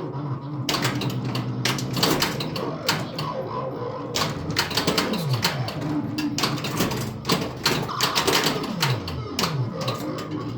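1981 Bally Centaur pinball machine in play: rapid clacks of flippers, solenoids and pop bumpers as the ball is kept in motion, over the machine's electronic sound effects with steady tones and several falling pitch sweeps.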